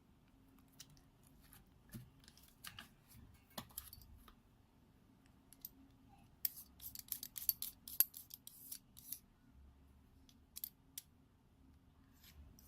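Sharp little clicks and scrapes from SOM Berthiot lenses being handled and their rings worked, scattered at first, then a dense run of clicks about six to nine seconds in.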